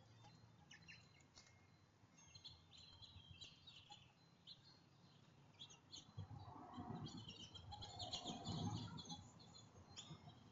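Faint chirps and twitters of small songbirds at a backyard feeder. The chirping gets busier and louder from about six seconds in, along with a low rustling.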